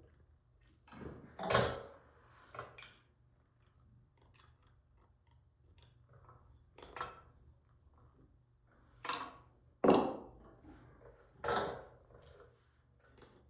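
Metal tools and exhaust hardware being handled during exhaust pipe fitting on a motorcycle: scattered clinks and taps, with about six louder clanks spread through, the loudest near the middle.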